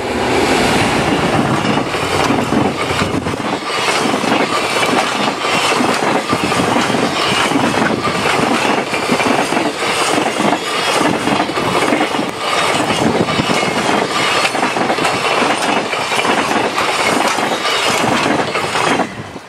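A JR Freight EF510 electric locomotive and its container wagons passing close by: a loud rumbling rush with a rapid clatter of wheels over the rails. The noise drops away suddenly near the end as the last wagon passes.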